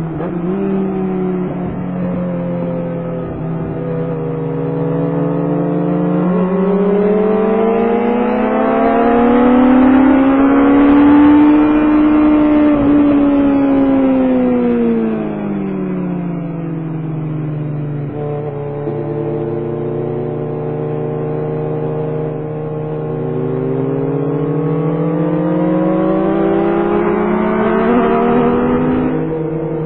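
Kawasaki Concours 14 inline-four engine running under way, heard from the rider's helmet. Its pitch climbs for about twelve seconds, falls for the next several, then climbs again near the end as the rider opens and closes the throttle.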